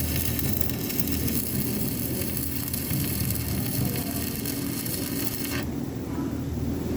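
Welding arc crackling and sizzling steadily, then cutting off suddenly near the end as the arc is broken, over a steady low hum that carries on.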